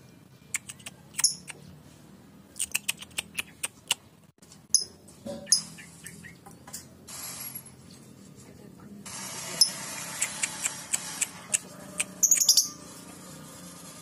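A lovebird and a starling calling back and forth: short, sharp chirps in irregular clusters. About halfway through, a steady high hiss comes in and gets louder.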